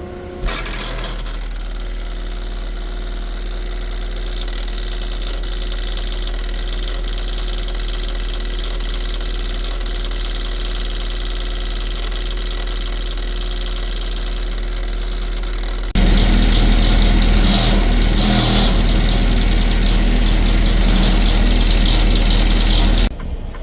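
A truck's diesel engine running steadily with a low hum. About two-thirds of the way through it suddenly gets much louder, with a rushing noise added, for about seven seconds, then drops back down.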